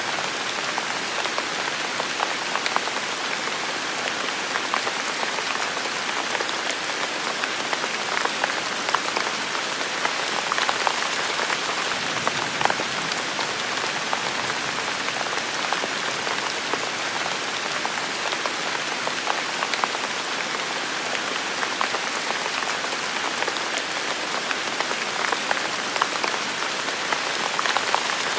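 Steady heavy rain falling on a forest, a dense hiss with many close drops pattering and ticking on leaves and surfaces.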